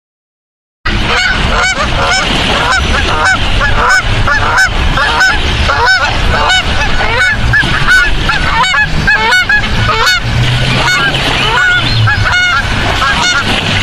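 A flock of swans calling, with many overlapping loud calls that rise and fall, a few each second. The calls start abruptly about a second in, after a moment of silence.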